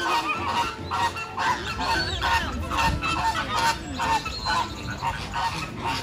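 A flock of birds honking, with many short calls overlapping, about two a second.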